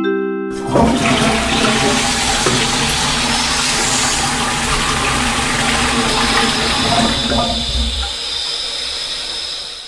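Toilet flushing: a loud rush of water that sets in about half a second in and eases off near the end. A brief rising chime sounds just before it.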